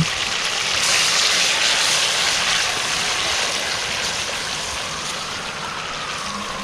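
Hot oil sizzling steadily as chunjang (black bean paste) fries in it, a continuous hiss that slowly dies down.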